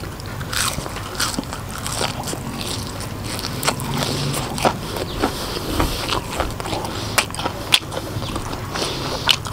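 A person biting into and chewing crispy fried mushroom coated in salt and chili, with many short, sharp crunches.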